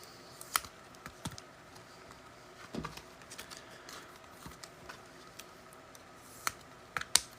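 Scattered light taps and clicks of trading cards being handled, sorted and set down on a table.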